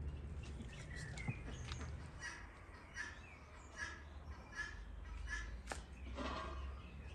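Birds calling in a yard: one short call repeated roughly every three-quarters of a second, with other scattered chirps over a low steady hum.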